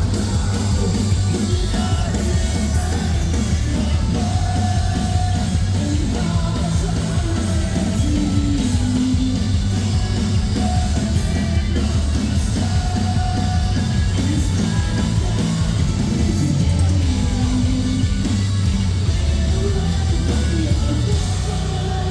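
Live metalcore band playing loud and steady, with vocals sung and yelled over heavy drums and bass.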